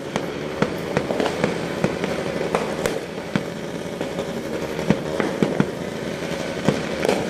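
Fireworks display going off: a rapid, irregular string of sharp bangs and pops over a continuous noisy din.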